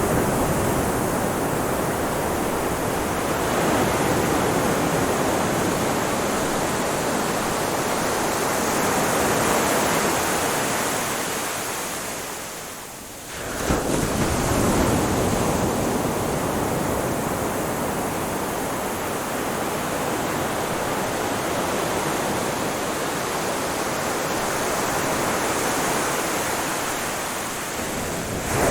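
Ocean surf breaking and washing on a shore, a continuous rush that swells and ebbs slowly. About halfway through it falls away briefly, then surges back suddenly.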